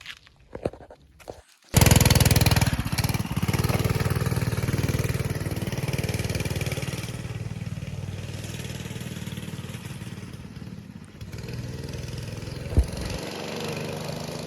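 Small pull-start pit bike's engine running as the bike is ridden, cutting in suddenly about two seconds in. It fades through the middle and grows louder again near the end.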